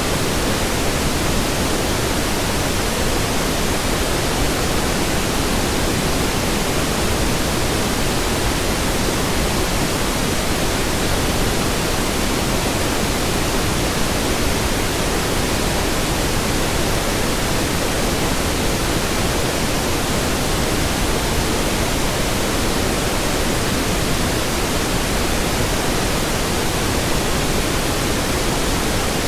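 Synthetic pink noise: a steady, even hiss spread across all pitches, with no change in level.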